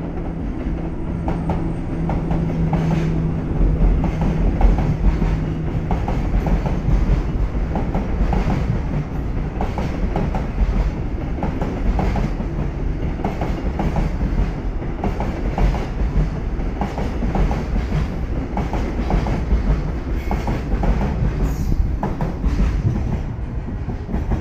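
Freight train hauled by a DD200 diesel-electric locomotive running through, the locomotive's steady low engine tone for the first few seconds, then a long string of container wagons rolling past with wheels clacking over the rail joints.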